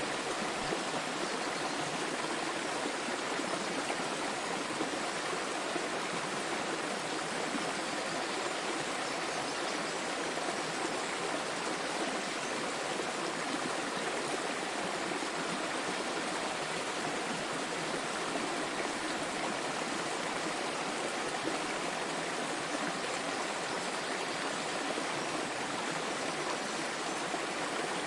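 Small waterfall splashing steadily, a constant even rush of falling water.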